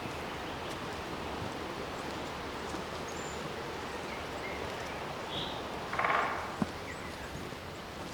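Forest ambience: a steady hiss of background noise with a few faint, high bird chirps. About six seconds in there is one short raspy call, followed by a single click.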